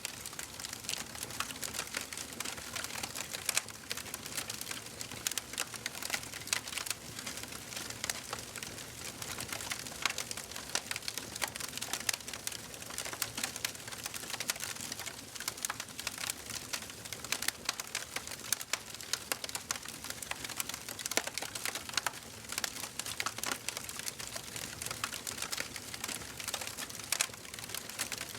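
Wood fire crackling in a fireplace: a dense, unbroken run of small sharp pops and snaps over a light hiss.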